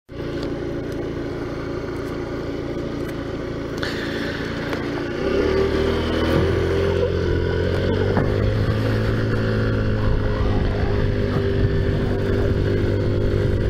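Taotao Zummer 50cc scooter engine running steadily, then getting louder about five seconds in and climbing a little in pitch as it is given throttle.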